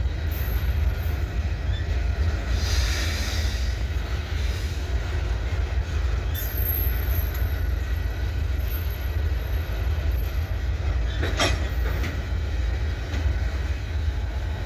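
Loaded covered grain hopper cars of a freight train rolling past, a steady heavy rumble of wheels on rail, with thin high wheel squeals in the middle and a sharp clank about eleven seconds in.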